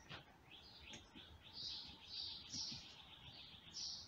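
Faint bird chirps repeating about twice a second, short high notes, some falling in pitch.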